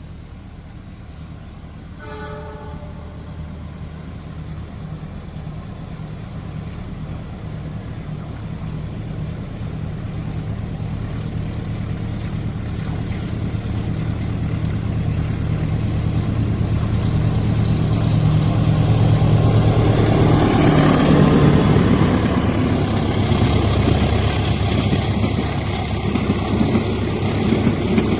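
Diesel-hauled train approaching: a steady low engine drone grows louder over about twenty seconds, with one short horn blast about two seconds in. From about twenty seconds in the train passes close, its wheels rumbling and rattling over the rails.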